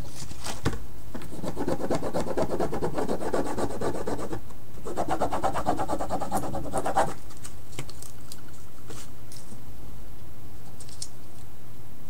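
Rapid back-and-forth scratchy rubbing on the painting's surface, in two spells of about three and two seconds, followed by a few light taps.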